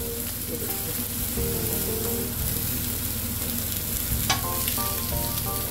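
Chicken pieces, tomatoes, peppers and green beans sizzling steadily on a large flat iron tawa, with a perforated steel spatula stirring and turning them and a sharp scrape about four seconds in. This 'shoo shain' hiss is the typical sound of street-food griddle cooking.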